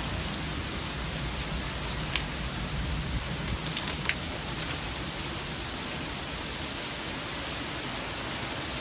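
Heavy rain falling in a steady downpour, a dense even hiss, with a few sharp ticks about two and four seconds in.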